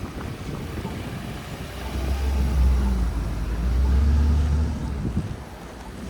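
A motor vehicle passing on the street, its low engine rumble swelling about two seconds in and fading near five seconds, with wind noise on the microphone.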